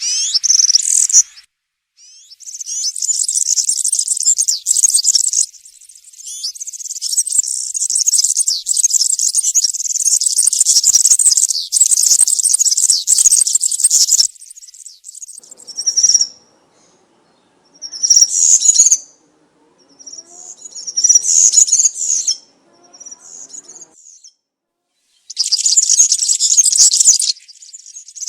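European serin singing its fast, high-pitched jingling song: a brief phrase, then one long unbroken phrase of about twelve seconds, followed by several short bursts with pauses between.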